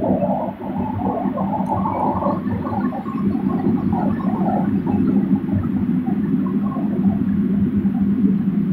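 Passenger carriage running along the track, heard from inside at the rear of the train: a steady low rumble, with a wavering higher moan over it that fades out after about seven seconds.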